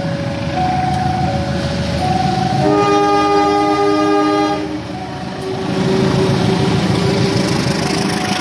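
A two-tone electronic warning alarm alternates a high and a low note for the first couple of seconds. A diesel passenger locomotive then sounds its multi-note horn for about two seconds, and runs past with a loud engine and wheel rumble as its coaches follow.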